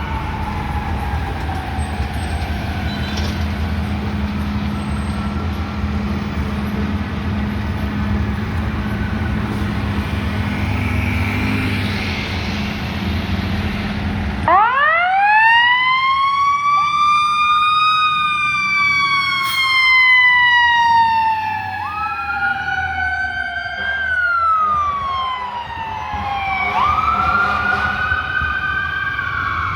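Fire apparatus sirens: for about half the time there is a steady low rumble of traffic and engines with a faint siren. About halfway in, a loud siren winds up sharply and then slowly falls in pitch. Other wailing siren tones rise and fall over it, from more than one responding rig.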